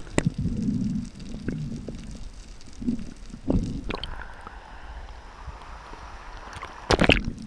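Water noise on an underwater camera during a spearfishing dive: low rumbles and scattered clicks, a steady hiss about four seconds in, and a burst of loud knocks and splashing near the end.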